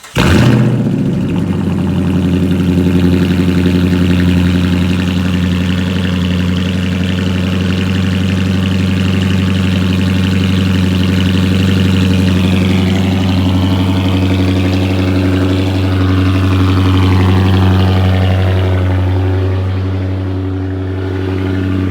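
Car engine catching on a cold start with a brief flare, then idling steadily with a deep, even exhaust note through newly fitted 5-inch exhaust tips.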